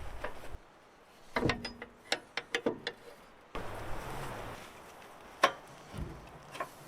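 A run of sharp mechanical clicks and knocks in quick succession, then one loud single click a few seconds later.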